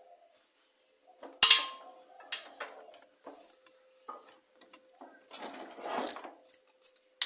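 Metal tools and parts clanking and clinking as they are handled on a workbench, with one sharp metallic clank about 1.4 s in and a stretch of scraping and rattling near the end.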